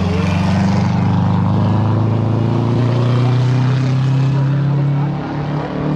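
Hillclimb race car engine running hard on the course, its pitch rising slowly, then its note dropping and changing about five seconds in.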